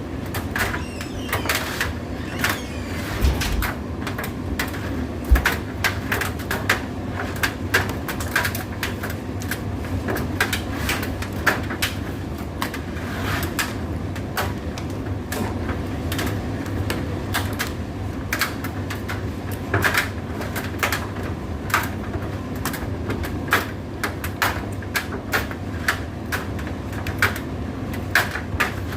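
Indesit IDC8T3 condenser tumble dryer running: a steady motor and drum hum with irregular clicks and knocks throughout.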